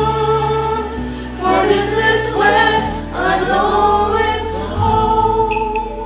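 Choir singing over held accompaniment chords, the closing bars of a slow song. A sung phrase swells in the middle, and the music begins to fade near the end.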